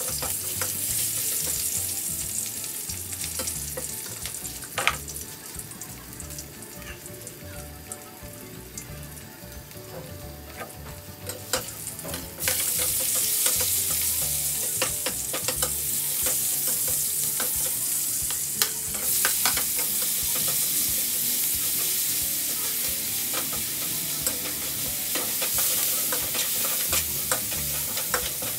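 Hot oil sizzling in a wok as chopped garlic and ginger are stir-fried, with a metal spatula scraping and clicking against the pan. About twelve seconds in the sizzle turns suddenly louder as more of the aromatics hit the oil.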